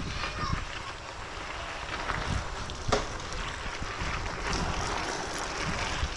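Steady rushing noise of wind on the microphone and bicycle tyres rolling over a rough trail, with a few knocks from the bike, the sharpest about three seconds in.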